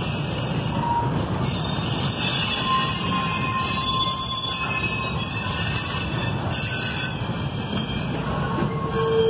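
Double-stack intermodal freight train's well cars rolling past steadily, wheels rumbling on the rails, with thin high-pitched wheel squeals coming and going. A lower squealing tone starts near the end.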